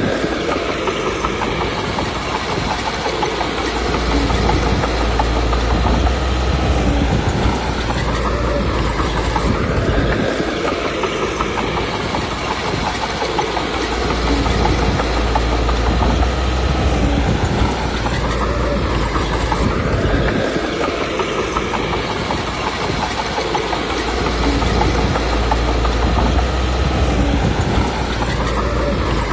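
Komatsu D21P crawler bulldozer working: the diesel engine runs under a load that swells and eases about every ten seconds, over the clatter of its steel tracks.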